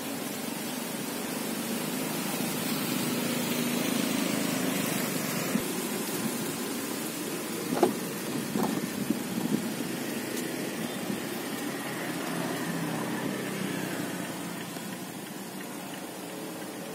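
Mazda CX-5 petrol engine idling steadily, with a few short clicks and knocks about eight to nine seconds in.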